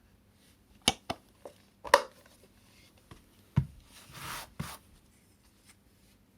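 Parts of a cordless cyclone vacuum cleaner being handled: a handful of sharp clicks and knocks, with a brief rustle near the middle.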